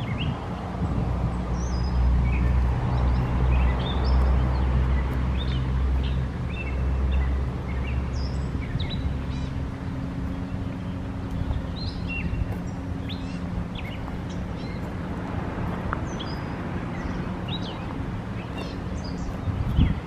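Songbirds chirping and calling, over a steady low hum that is louder for the first eight seconds or so.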